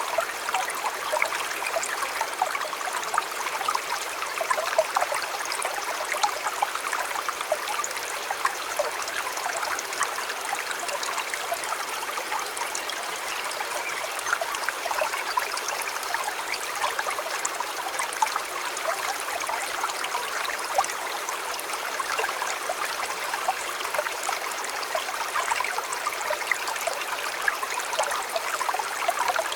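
Shallow river or stream flowing steadily, a continuous babble of small splashes and trickles.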